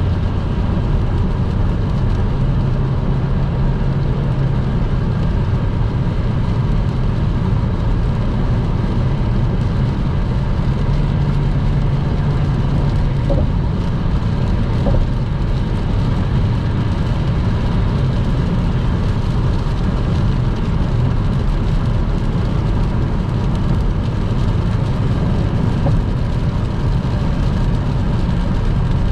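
Car driving at motorway speed on a wet road: a steady low rumble of engine and tyres with a light hiss above it, unchanging throughout.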